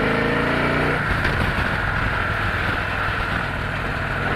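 Victory Cross Country's V-twin engine pulling under acceleration, its note rising until about a second in, then dropping away into a steady rushing noise over a low engine rumble as the bike rides on.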